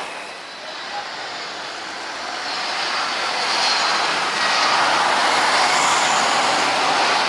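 Jet airliner coming in to land, its engine noise swelling about two and a half seconds in and staying loud.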